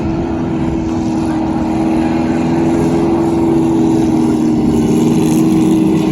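V8 stock car engines running on the track in a steady, even-pitched drone that slowly grows louder, then eases near the end.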